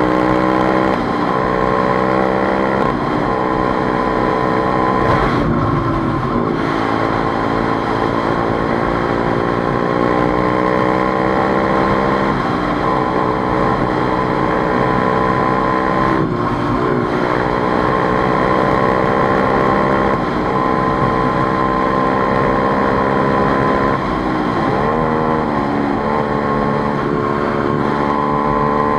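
Motorcycle engine under way, its pitch climbing slowly and dropping back sharply several times as the gears change, with a steady high whine alongside.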